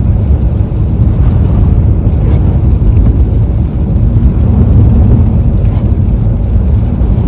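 Steady low rumble of a car driving on slushy, icy roads, heard from inside the cabin: tyre and road noise with the engine underneath.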